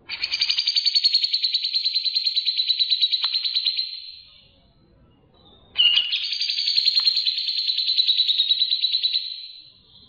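A songbird singing two long, rapid trills of about ten notes a second, the second starting about six seconds in after a pause. It is from a song-training recording of cucak jenggot (grey-cheeked bulbul) and tree sparrow song.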